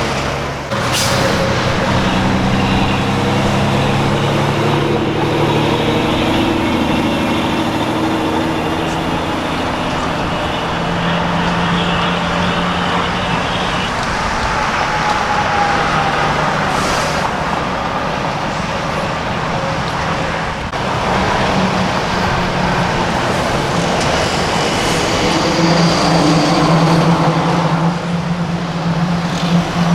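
Diesel semi-truck engines running as trucks drive past, the engine note shifting pitch several times over steady road noise, with a couple of short hisses.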